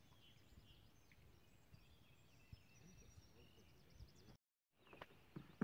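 Near-quiet riverside air with faint, scattered birds chirping. The sound drops out completely for a moment about four and a half seconds in, then a few knocks of handling noise come near the end.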